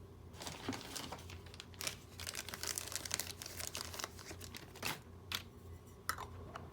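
Crinkling and rustling with many small clicks, dense for the first few seconds and then a few separate sharp ticks: hands working with small parts and material on a workbench during a smartwatch repair.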